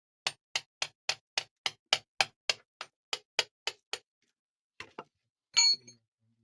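A quick run of about fourteen sharp, even clicks or taps, some three or four a second, then a pause, two more clicks and a brief high squeak near the end.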